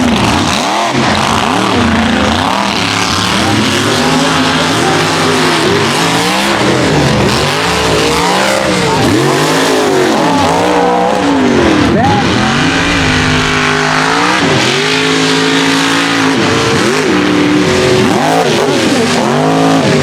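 Mega truck racing engines revving hard, their pitch climbing and dropping over and over as the trucks race the mud course.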